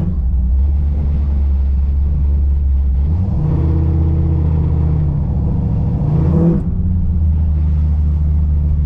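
Car engine running through a custom dual exhaust with a deep, steady idle. It is raised to a slightly higher, steady speed about three seconds in, then settles back to idle a few seconds later.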